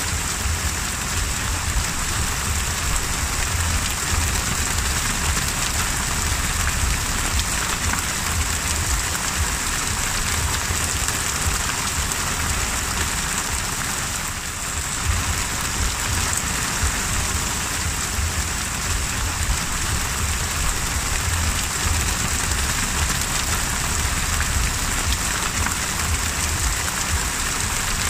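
Heavy rain falling onto the open sea: a steady, dense hiss of drops striking the water surface, with a low rumble underneath.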